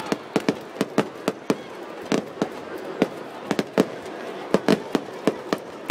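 Fireworks bursting overhead: a rapid, irregular string of sharp bangs, several a second.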